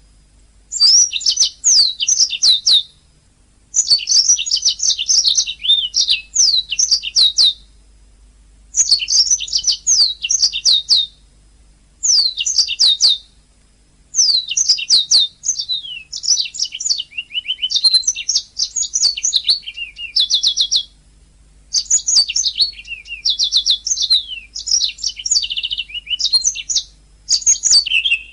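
Domestic canary singing: phrases of rapid chirps and trills, each one to three seconds long, with short pauses between them.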